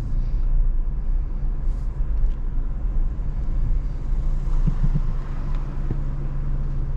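Steady low rumble of a 2025 Honda Civic Type R's turbocharged four-cylinder engine and road noise, heard from inside the cabin. The engine sounds quiet and sits at low revs with no revving.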